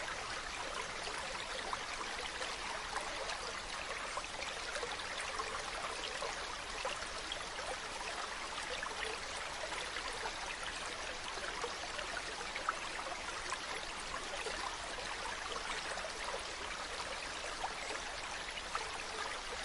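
Steady running water, an even rushing hiss with fine trickling crackle.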